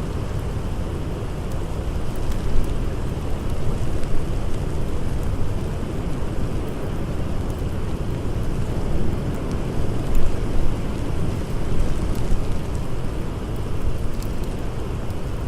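Blizzard wind blowing in a steady deep rush that swells and eases in gusts, with a few faint crackles of a campfire.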